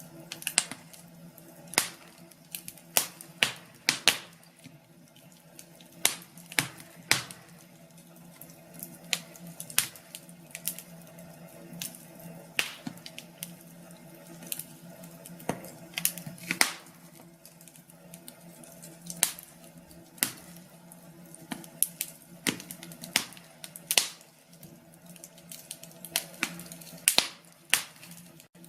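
Wood fire in a fireplace crackling, with irregular sharp pops, some in quick clusters, over a faint steady low hum.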